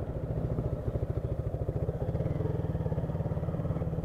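Honda CG 160 Start motorcycle's single-cylinder four-stroke engine running steadily at low road speed while riding, a fast even throb.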